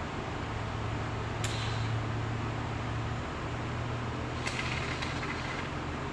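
A can of expanding spray foam is sprayed in a short hiss after a click about two thirds of the way in, with another click earlier, over a steady low hum.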